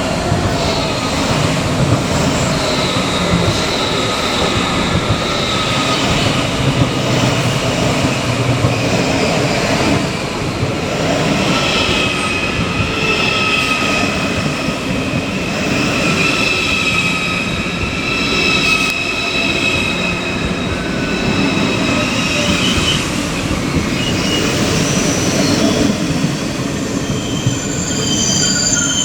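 A train moving through a station, running with a steady rumble and rattle while its wheels squeal in several high, drawn-out tones that shift in pitch.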